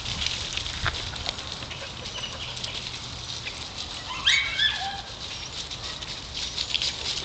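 Dogs moving about, making scattered small scuffs and clicks. A little past the middle comes one short high-pitched call that rises and then drops.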